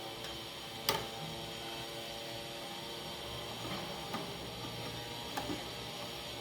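Computer parts being handled during assembly: one sharp click about a second in and a few lighter clicks later, over a steady hum.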